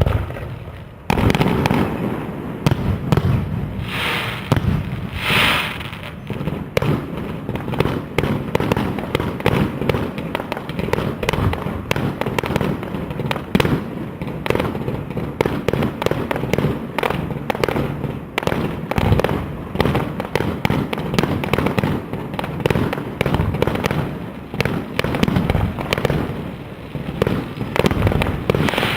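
Fireworks display: a single bang, then about a second in a dense, continuous barrage of rapid overlapping bangs and shell bursts, with a brief hissing burst around four to six seconds in.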